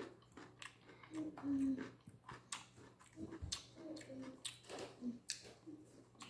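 Close-up chewing of raw fruit and vegetables, with scattered short clicks of a metal fork against a glass dish and small mouth sounds.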